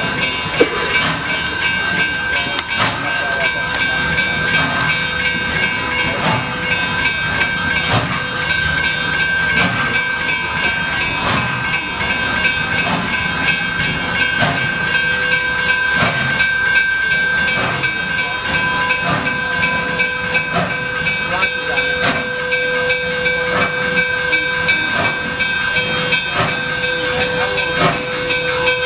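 Nickel Plate Road steam locomotive hissing steam steadily, with a steady high whine over the hiss and short knocks repeating about once a second.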